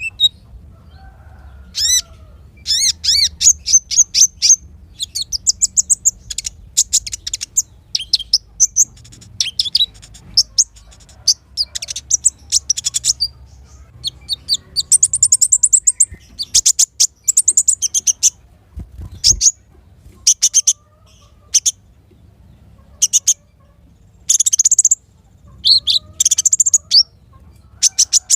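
Small songbirds singing in bursts of rapid, high-pitched trills and chirps, each phrase lasting about a second, with short pauses between.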